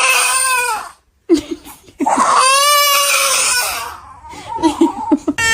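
A baby crying in two long wails, with short, lower sounds between them.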